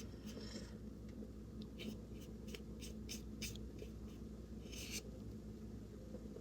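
Faint scratching of a small flat paintbrush dragging acrylic paint across gesso-primed paper in short strokes, with two longer strokes, one near the start and one about five seconds in, over a low steady hum.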